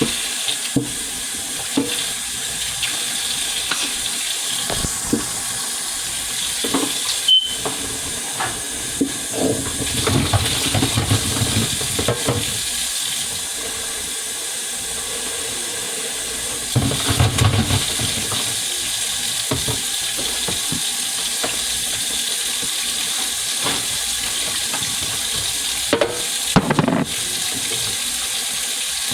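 Kitchen tap running steadily into the sink, with scattered knocks and clatter of items in the sink and two longer stretches of heavier splashing or rumbling.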